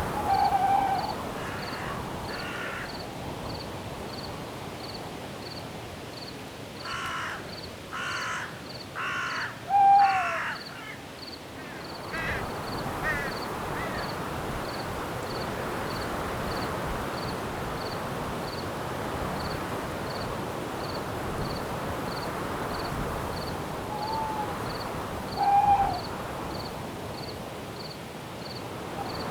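Night forest ambience: crickets chirping steadily, about two chirps a second, over wind in the trees that swells about halfway through. A bird gives four harsh, caw-like calls a few seconds in, and short whistled calls come near the start, around ten seconds in and near the end.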